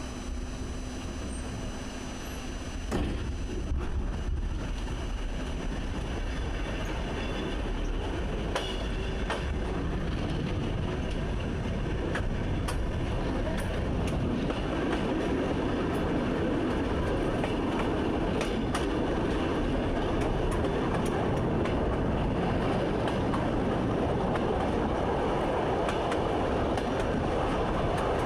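Train running on rails, heard from inside the driver's cab: a steady rumble with scattered clicks of the wheels over rail joints, growing gradually louder.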